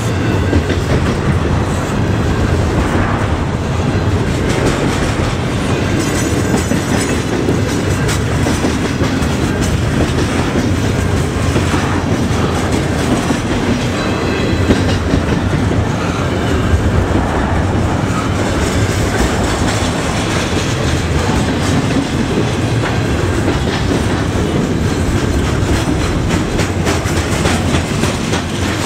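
Double-stack intermodal container train rolling past: steady rumble of the loaded well cars, with wheels clicking over rail joints.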